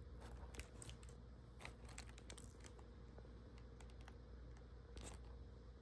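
Near silence with a few faint, scattered clicks and crinkles of handling.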